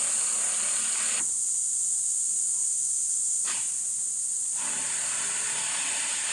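Cricket singing with a steady, high-pitched unbroken trill. A lower hiss under it drops away about a second in and comes back after four and a half seconds, with a single click about three and a half seconds in.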